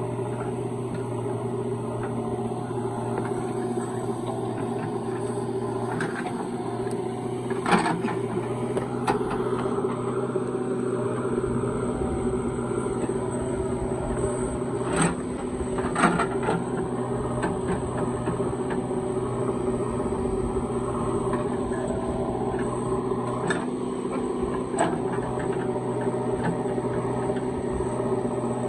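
Heavy diesel engine running steadily under load, with a few short sharp knocks about a third and about halfway through.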